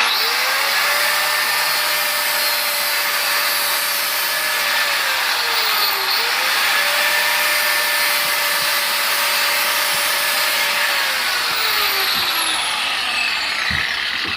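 Angle grinder running and grinding the edge of a steel lawn mower blade to sharpen it. The motor's pitch sags about a third of the way through and again near the end as the disc is pressed harder into the steel.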